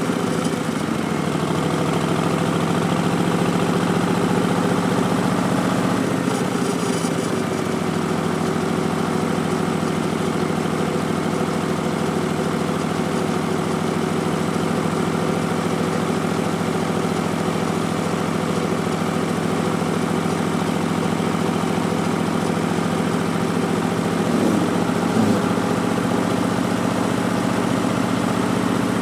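Harley-Davidson Street Bob's Milwaukee-Eight 107 V-twin running steadily through Vance & Hines Twin Slash slip-on mufflers, with a brief change in pitch about seven seconds in and again near the 25-second mark.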